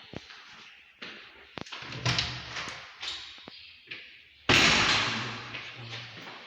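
A few light knocks and taps, then one loud sudden bang about two-thirds of the way through that rings away in the room over about a second and a half.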